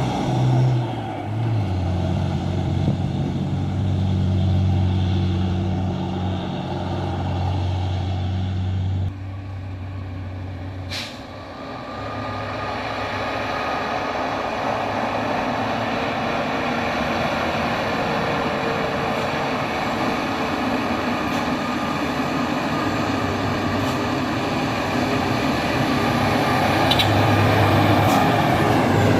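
Heavily loaded dump trucks passing one after another, their diesel engines running. A strong low engine note holds for the first nine seconds and gives way to a wider engine and road noise that builds toward the end, with one short sharp sound about eleven seconds in.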